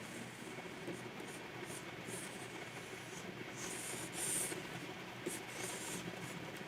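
Pen nib of a Wacom pen tablet stroking across the drawing surface in short scratchy strokes. The longest and loudest stroke comes a little past the middle.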